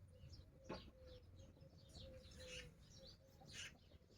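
Faint chirping of small birds, many short chirps in quick succession, with one soft knock under a second in.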